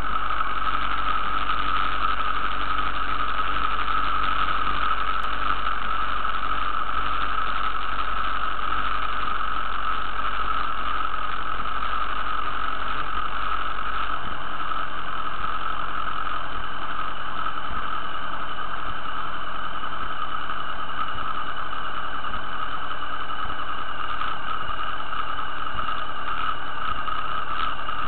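Motorcycle engine idling steadily while the bike stands still, an even, unchanging drone.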